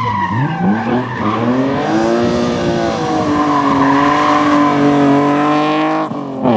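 Rally car engine at full throttle: the revs drop sharply at the start and climb straight back, then hold high and fairly steady. There is a brief break about six seconds in, before an engine note starts again.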